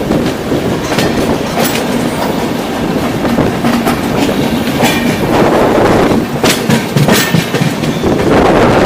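Indian Railways express passenger train running along the track: a loud steady rumble of the coaches with the wheels clacking over rail joints in sharp, unevenly spaced clicks.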